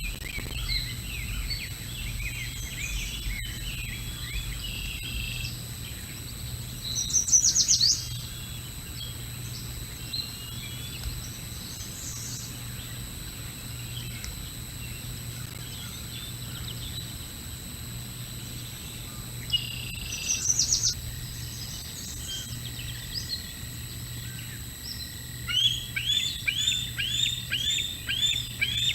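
Outdoor bird calls: scattered short chirps and twitters, with louder bursts about a quarter of the way in and again past two-thirds. Near the end comes a quick series of repeated falling chirps, about three a second. A steady low electrical hum runs underneath.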